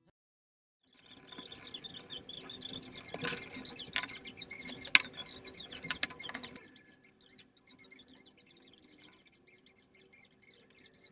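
Quick small clicks and light scratching from close-up handling, starting about a second in, busiest for several seconds, then fainter and sparser.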